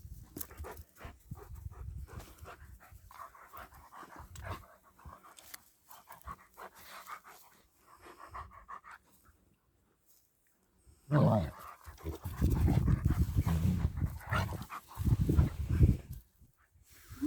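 German Shepherd dogs panting. After a short drop-out near the middle, a louder stretch of low rumbling sound follows.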